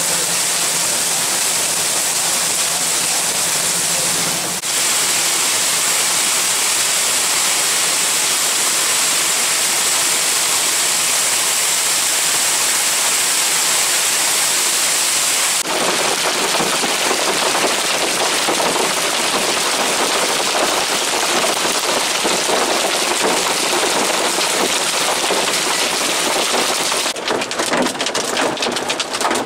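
Heavy rain pouring down steadily, its sound changing abruptly twice. Near the end it turns into a dense, rapid patter of separate impacts.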